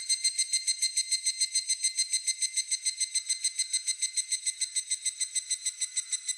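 Higurashi (evening cicada) calling: a fast, even string of high, ringing pulses, about ten a second, that keeps going without a break.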